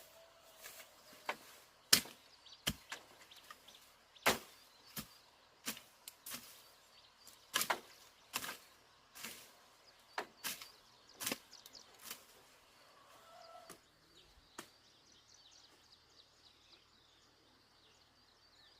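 A run of sharp, irregular knocks, roughly one or two a second, that stop about fourteen seconds in, leaving only a faint high drone.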